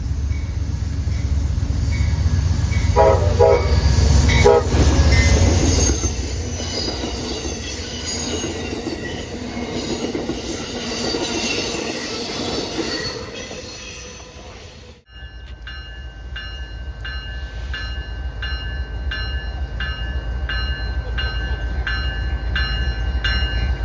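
A train rolling past with rail noise and high wheel squeal, its horn sounding in short blasts a few seconds in. After an abrupt cut about fifteen seconds in, a locomotive bell rings steadily, roughly one strike every three-quarters of a second, over the rumble of a diesel engine.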